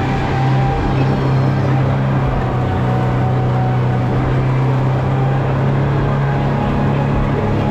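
Boat engine running steadily at cruising speed with a constant low drone, heard from inside the boat.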